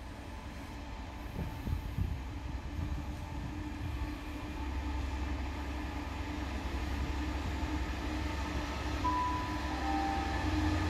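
GB Railfreight Class 66 diesel-electric locomotive approaching at the head of a container freight train: its two-stroke V12 engine's steady note and the rumble of the train grow steadily louder as it nears.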